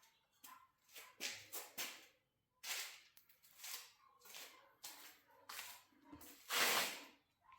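A string of irregular scraping, rasping strokes from hand work on garage door torsion spring hardware, the loudest about six and a half seconds in.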